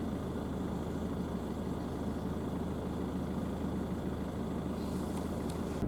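Car engine idling steadily, heard from inside the stopped car.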